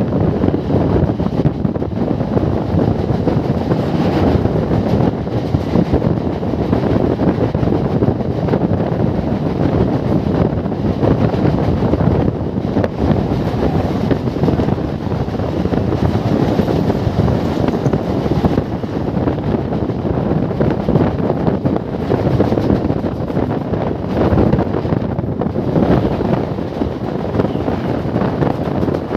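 Wind buffeting the microphone at the open door of a moving suburban electric local train, mixed with the train's running noise on the rails: a loud, steady rush.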